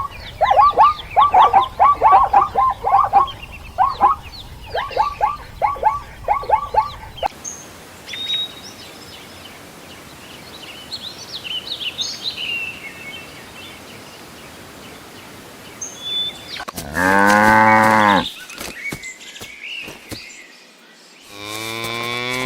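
Quick, repeated animal calls for the first several seconds, then faint bird chirps over a low hiss, then a cow mooing twice near the end, each moo over a second long and the loudest sound here.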